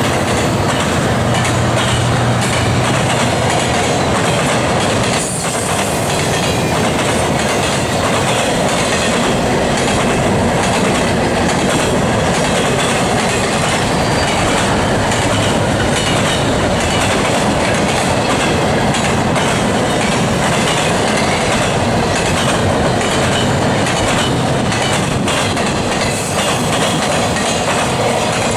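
Double-stack intermodal well cars rolling past close by: a steady, loud rumble and rattle of steel wheels on rail, with irregular clicks as the wheels cross rail joints. A low steady tone fades away in the first few seconds.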